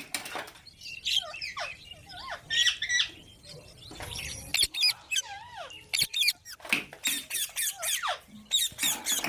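Pet green parrots squawking and chattering in a run of short, harsh calls, many of them swooping up or down in pitch.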